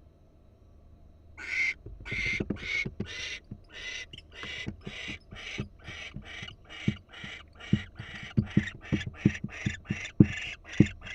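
Barn owls giving rapid, repeated rasping hisses, the snoring hiss barn owls use. The hisses begin about a second in at about two a second and speed up to about three a second, with low knocks among them.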